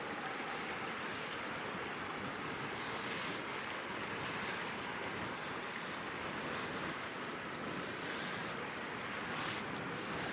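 Steady rushing noise of strong wind and water, with a brief stronger hiss near the end.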